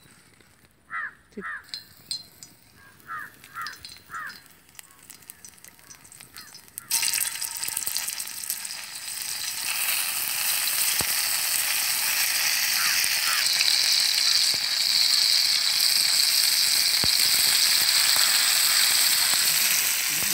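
A crow caws several times, then about seven seconds in a sudden loud sizzle starts as stuffed snake-gourd pieces go into hot oil on an iron griddle. The sizzle grows louder and then frys on steadily.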